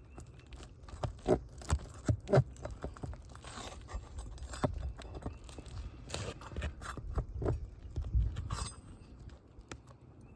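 Irregular clicks, knocks and scrapes of hand tools prying at asphalt roof shingles, with a few sharper taps about one to two and a half seconds in.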